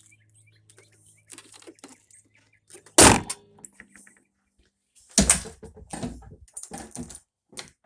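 Two loud bangs about two seconds apart, the second followed by several smaller knocks and rattles.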